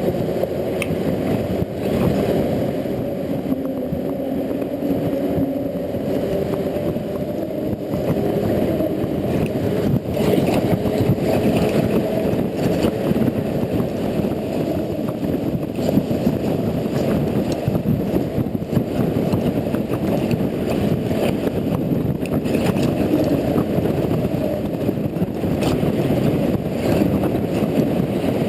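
Riding noise on a Honda Integra NC750D motorcycle on wet roads: a steady, dull rush of wind and road noise. The engine's hum shows through in the first few seconds.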